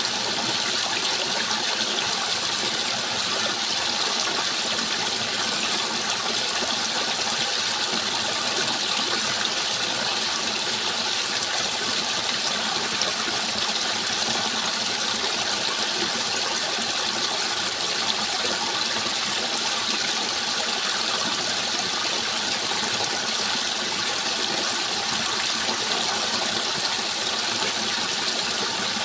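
Continuous rushing water, a steady hiss that does not change.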